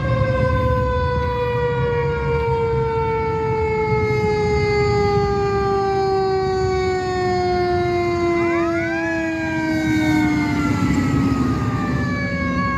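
Fire truck siren sounding, its pitch falling slowly and steadily for about ten seconds as it winds down. About eight seconds in a second siren tone sweeps up over it, with a low rumble underneath.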